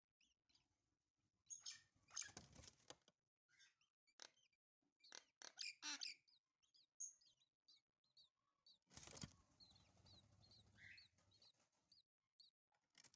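Lovebird chicks chirping with many short, high calls, including a quick run of calls near the end. Two louder scuffling noises come at about two seconds in and again about nine seconds in.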